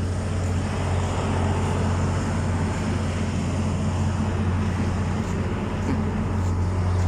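Steady hum of running machinery in the background, a low drone with an even rushing noise over it and no change in pace.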